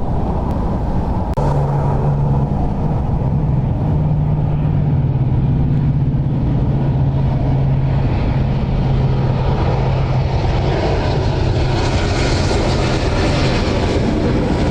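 Jet airliner on short final approaching, a steady low engine drone whose high-pitched hiss grows stronger over the second half.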